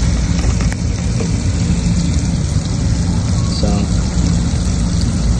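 Steady low mechanical hum with a droning tone, loud throughout and unchanging.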